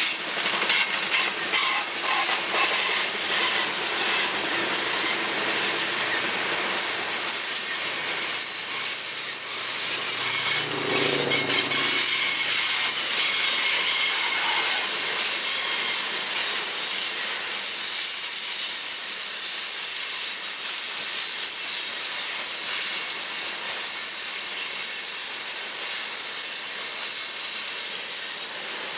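Coal hopper cars of a freight train rolling past on a curve, a steady hissing rush of steel wheels on the rails.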